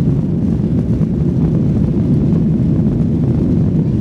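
Steady low rumble of a Boeing 737-800's CFM56 jet engines and airflow, heard inside the passenger cabin.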